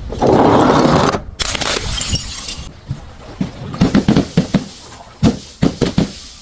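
Glass bottles smashing: two loud crashes of breaking glass in the first two and a half seconds, followed by a scatter of separate sharp knocks and clinks.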